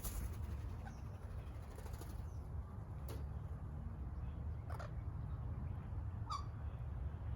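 One short bird call about six seconds in, from a red-capped parrot. It sits over a steady deep rumble, with a few faint sharp clicks.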